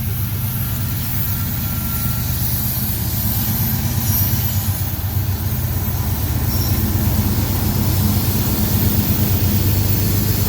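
Helper set of diesel-electric locomotives working hard on a heavy freight climbing the grade: a deep, steady engine throb, slowly growing louder.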